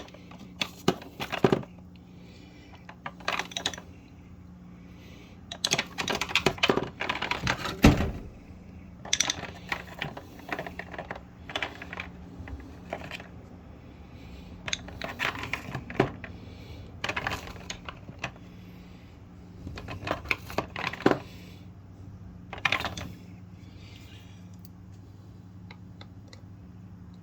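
Cordless drill on a low clutch setting driving screws home in short bursts, about a dozen over the stretch, with rapid clicking as the clutch slips once each screw is tight.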